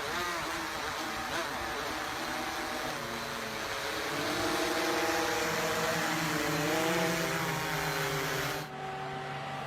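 Flamethrower drone in flight: its propellers whine, the pitch wavering up and down, over a steady rushing hiss. Near the end it gives way abruptly to a quieter, steady machine hum.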